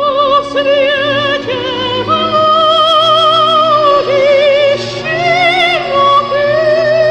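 Soundtrack music: a high, operatic voice sings long held notes with wide vibrato over sustained low accompanying chords.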